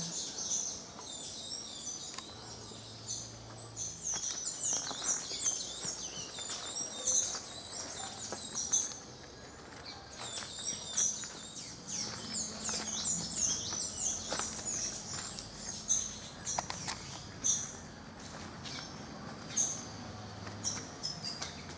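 Birds chirping, many quick high calls overlapping, thinning out in the last third, with a few soft clicks.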